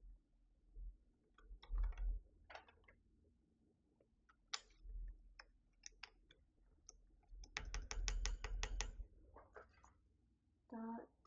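Plastic keycaps and switches on a Keychron V6 Max mechanical keyboard clicking as keycaps are handled and pressed onto the numpad, in scattered single clicks with a quick run of about six clicks a second past the middle. A short pitched tone begins near the end.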